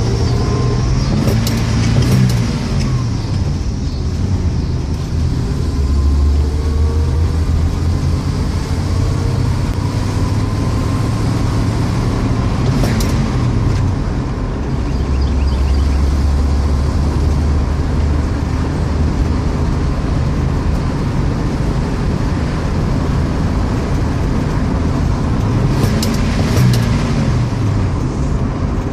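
A 1967 AMC Rebel being driven, its engine and road noise running steadily. The engine pitch rises and falls a few times as the car speeds up and changes gear, with a few brief sharp knocks.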